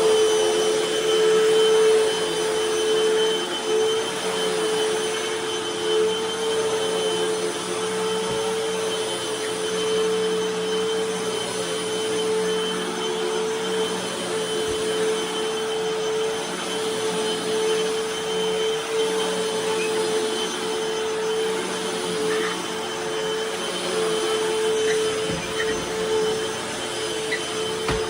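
Hoover T-Series Pet Rewind upright vacuum cleaner running steadily with a constant motor whine. The owner thinks its fan might be a tad off balance.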